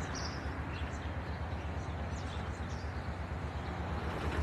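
Narrowboat's diesel engine running steadily at low cruising revs, a low, even chugging.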